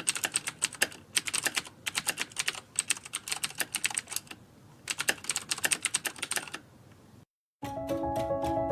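Rapid, uneven sharp clicks in three runs with short pauses between them, like fast typing. The clicking stops, and music with plucked notes begins near the end.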